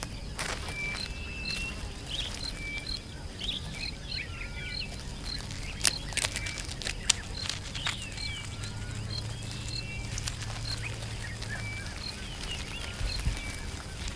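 Birds chirping and calling, with one short high note repeated steadily about one to two times a second, and a few sharp clicks near the middle.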